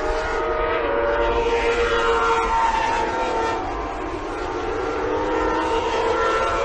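Several high-revving racing motorcycle engines, their held whines overlapping and drifting slowly up and down in pitch.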